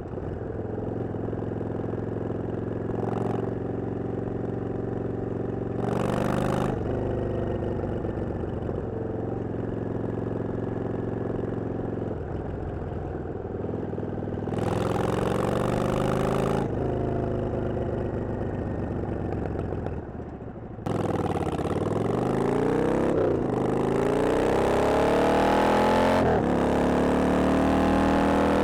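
Yamaha XVS 650 bobber's air-cooled V-twin idling steadily, blipped briefly about 6 seconds in and revved for a couple of seconds around 15 seconds in. From about 21 seconds the engine speed climbs and drops several times, getting louder.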